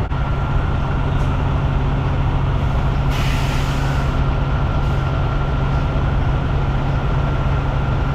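Semi-truck running, heard from inside the cab: a steady low drone of engine and road noise, with a brief hiss about three seconds in.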